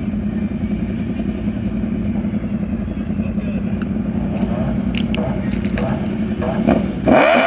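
A vehicle engine idles steadily, then is revved hard near the end, rising sharply in pitch and getting louder.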